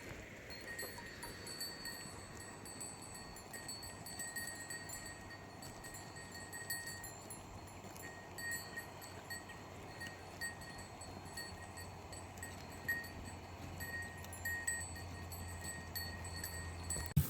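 Bells on grazing sheep ringing faintly and irregularly, short clinks at the same few pitches coming again and again as the flock feeds.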